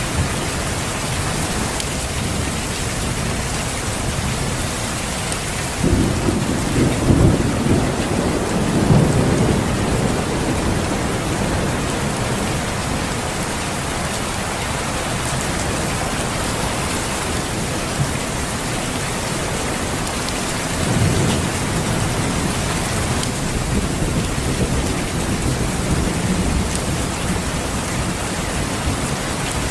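Steady rain with rolling thunder: a long low rumble starts about six seconds in and lasts several seconds, and a weaker one comes around two-thirds of the way through.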